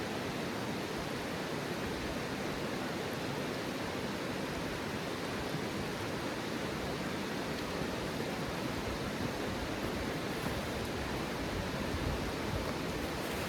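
A steady, even rushing noise with no separate events, from low to high pitch at once.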